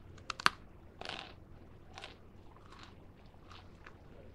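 Crisp bite into a piece of freeze-dried ice cream: a sharp crack about half a second in, followed by a few softer crunching chews about a second apart.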